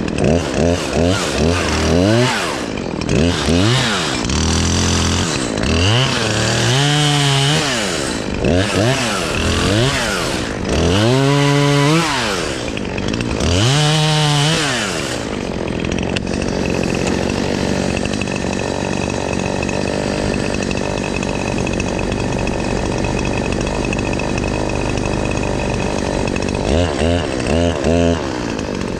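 Cold two-stroke chainsaw being warmed up: the throttle is blipped repeatedly, the engine revving up and dropping back about eight times, then it settles into a steady idle. A few quick revs come near the end. The engine is cold and slow to warm.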